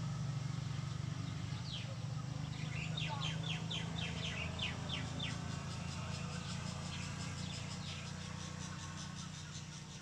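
A songbird singing a quick run of about ten down-slurred notes, about four a second, a few seconds in, with a few fainter calls later. Underneath is a steady low hum.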